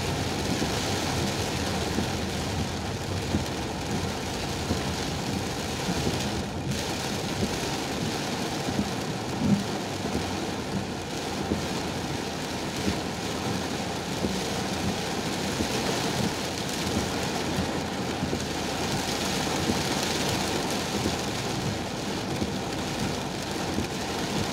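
Heavy rain falling on a car's roof and windshield, heard from inside the cabin as a dense, steady patter.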